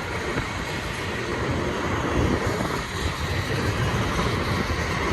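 BNSF freight cars rolling past, a steady rumbling with no let-up, mixed with wind buffeting the microphone.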